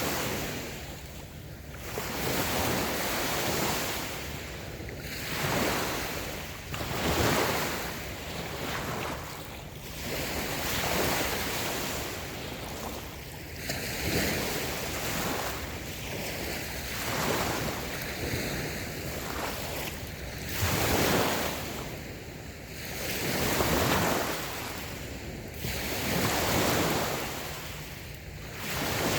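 Small waves breaking and washing up a sandy beach, each swell of surf hiss rising and fading every two to three seconds, with some wind on the microphone.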